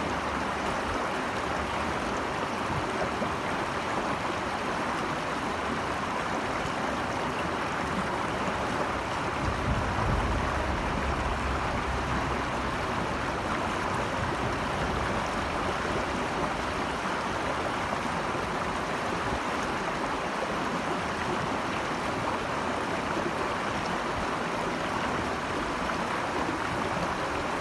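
Steady rushing of stream water over rocks, an even wash without any pattern, with a brief low rumble about ten seconds in.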